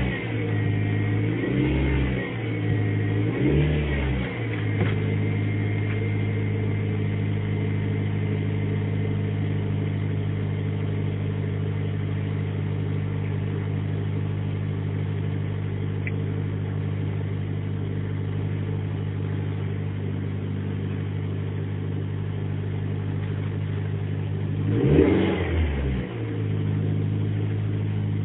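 Suzuki SX4 engine idling after a cold start in about −16 °C frost, heard from inside the cabin. It is revved briefly twice in the first few seconds and once more near the end. A thin high whine sits over the idle for the first several seconds and then fades out; the owner wonders whether it comes from the V-belt or the air-conditioning compressor.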